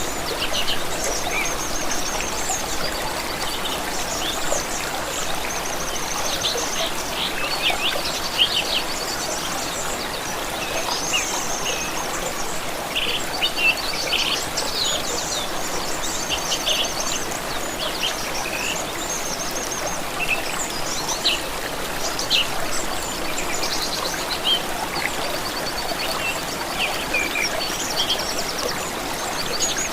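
Songbirds chirping and singing in short trilled phrases over the steady rush of a flowing stream.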